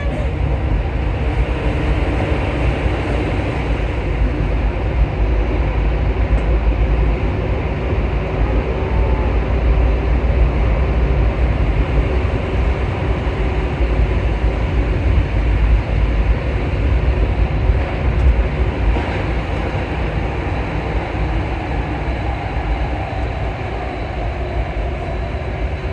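Alstom MP14 rubber-tyred metro train running at speed through a tunnel, heard from inside the front car: a loud, steady low rumble with a faint motor whine.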